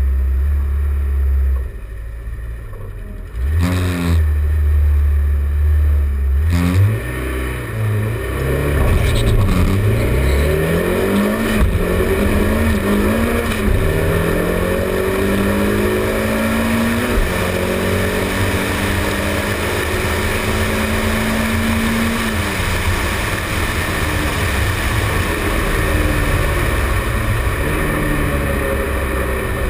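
Car engine held at a steady rumble on the start line, then launching and accelerating hard: its pitch climbs and drops back at each of several quick gear changes, then climbs slowly in a long pull before easing off near the end, with heavy wind and road noise over it.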